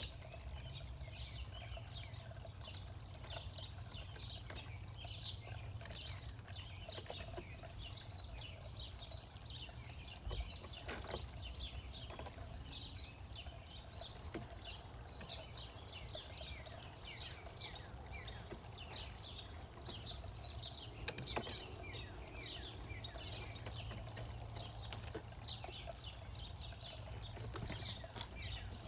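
Many small birds chirping in quick, high, overlapping calls, over a low steady rumble, with a few sharp knocks.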